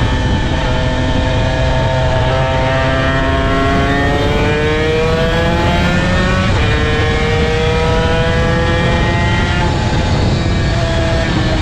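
Honda NSR250R's two-stroke V-twin engine accelerating hard at track speed, its pitch climbing. An upshift drops the pitch about halfway through, it climbs again, and it falls away once more near the end, all over a steady rush of noise.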